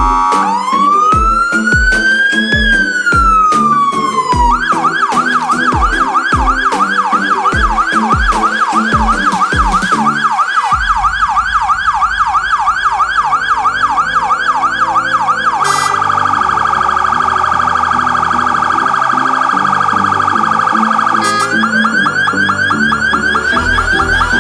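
Fire engine's PS-200 electronic siren modulator running through its tones. First comes one slow wail rising and falling, then a fast repeated yelp of about two to three sweeps a second. About ten seconds in, a rapid warble sounds for some five seconds, and the yelp returns near the end. Music with a steady beat plays underneath.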